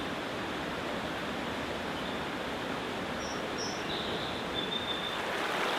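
Forest stream flowing, a steady rush of water, with a few short, faint bird chirps a little past the middle.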